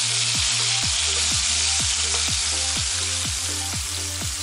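Sliced onion and chopped tomato sizzling steadily in hot vegetable oil in a frying pan, just added and being stirred with a wooden spatula.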